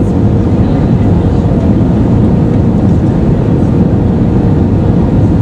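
Airbus A320-214 cabin noise in flight: the steady, loud rumble of the CFM56 engines and the airflow over the fuselage, with a faint steady hum running through it.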